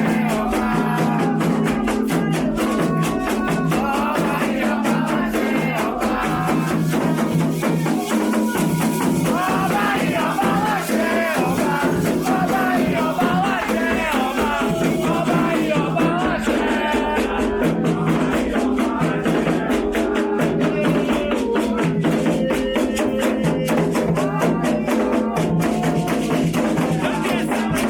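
Candomblé ritual chanting: voices singing a cantiga over a steady, driving beat of drums and shaken rattles, without a break.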